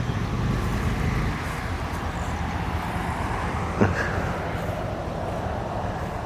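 Steady low rumble of road and wind noise from a slowly moving car with its windows open, with one short sharp squeak about four seconds in.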